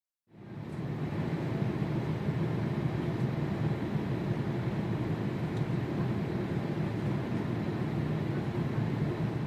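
Steady jet engine noise from an airliner, a low even rumble that fades in within the first second and then holds level.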